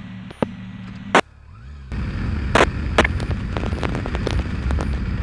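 A steady low hum with regular faint clicks ends in a sharp click just over a second in. From about two seconds in there is loud motorcycle engine and wind noise, broken by a few sharp pops.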